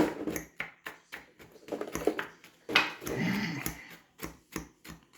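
A metal fork clicking and scraping irregularly against a ceramic mug as cookies are crushed and mashed in it, with the sharpest knock right at the start. A brief voice-like sound about three seconds in.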